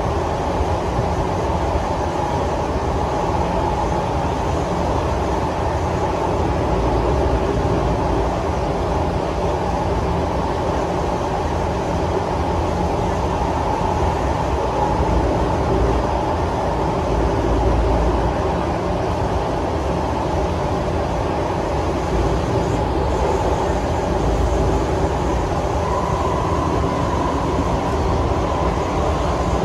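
Singapore MRT train running, heard from inside the carriage: a steady low rumble of the wheels on the rails, with a constant hum over it.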